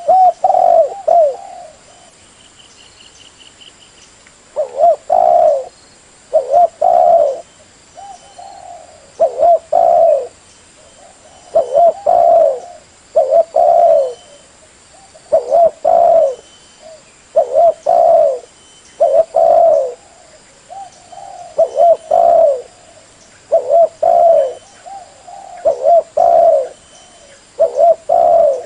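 Spotted dove cooing: short phrases of low coos repeated roughly every two seconds, with a gap of a few seconds just after the first phrase.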